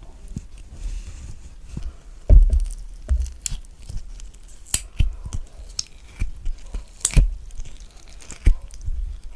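Spoon scooping the flesh out of a halved kiwi, close to the microphone: irregular wet scrapes and sharp clicks, with a soft thump about two seconds in.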